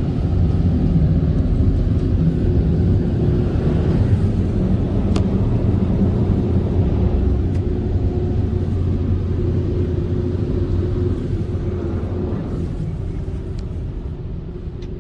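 Old Hanna tunnel car wash dryer blowers running, heard from inside the car: a loud, steady rumble with a constant hum that fades over the last few seconds as the car moves out of the dryers. A couple of sharp clicks come about five and seven seconds in.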